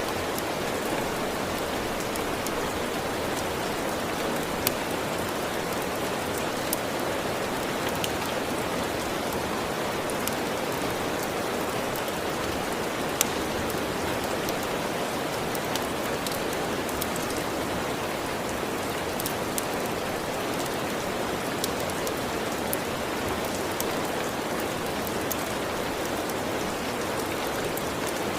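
Steady, even rain with scattered sharp crackles from a wood fire every few seconds.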